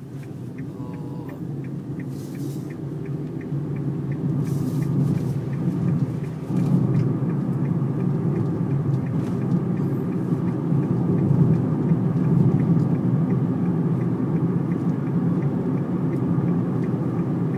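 Steady low rumble of strong sandstorm wind and vehicle noise, heard from inside a vehicle, growing louder about six seconds in. A faint, even ticking runs under it.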